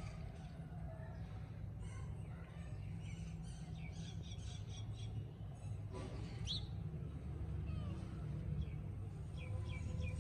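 Small birds chirping, short high calls scattered through, one rising call about six and a half seconds in, over a steady low rumble.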